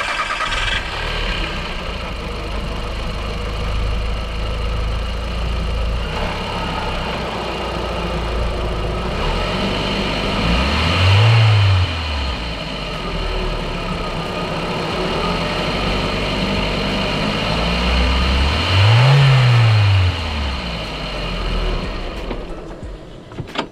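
Audi TT 1.8T turbocharged four-cylinder engine idling, revved twice to about 3,000–4,000 rpm, each rev rising and falling back to idle within about two seconds. The owner is checking for a suspected boost problem.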